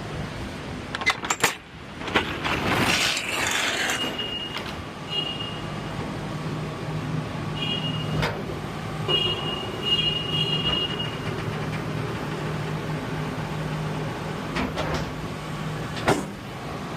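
A box truck being unloaded at a warehouse: a steady low hum under knocks and clanks, with a loud rushing scrape from about two to four seconds in. Short high-pitched chirps come several times in the middle.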